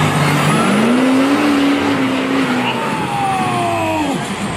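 Mud truck engines revving, their pitch rising and falling, over a steady noisy background.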